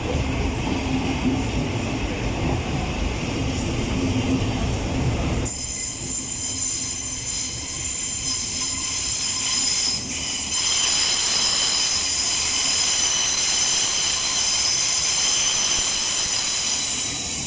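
A passenger train moving through the station, a low rumble with a steady hum. About five seconds in, its wheels break into a high-pitched squeal of several tones at once, which gets louder about halfway through.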